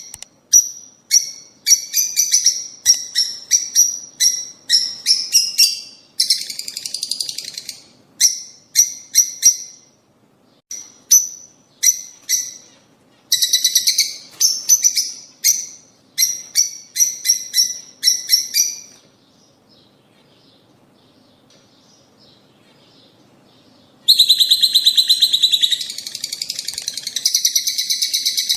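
Lovebirds chirping: shrill, high-pitched chirps in quick runs, falling quiet for about five seconds past the middle, then a dense stretch of rapid chattering near the end.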